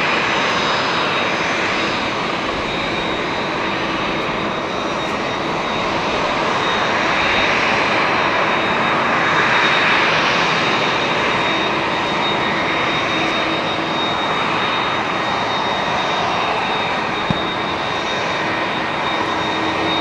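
Jet engines of an Airbus A350-900 running, heard from a distance: a steady rushing noise with a constant high whine, swelling slightly about halfway through.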